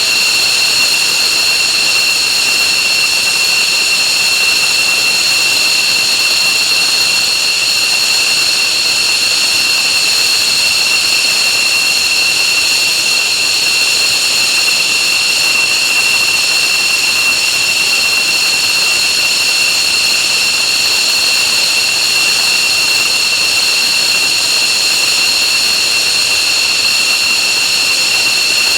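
F-15J Eagle's F100 turbofan jet engines running steadily with a loud, unchanging high-pitched whine over a rushing roar, heard close up in front of the jet and loud enough to distort the recording.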